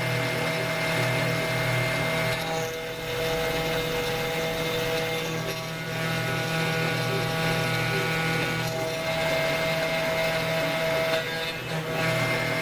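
CNC router spindle running steadily with a whine while cutting acrylic resin, the sound dipping and shifting in tone briefly about every three seconds.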